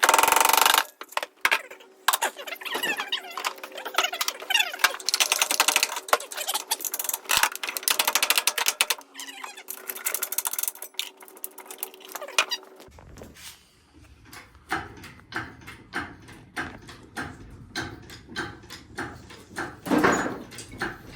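Ratcheting hand tool clicking in quick runs of strokes, then in slower, evenly spaced clicks about three a second.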